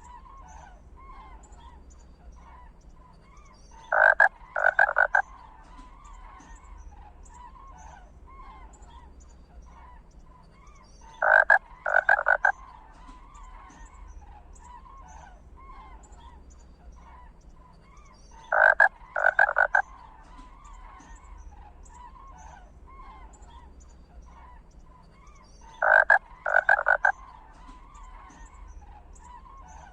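Stork bill-clattering: a rapid wooden rattle in three quick bursts, repeating the same way about every seven seconds, over a faint, continuous chorus of small chirping calls.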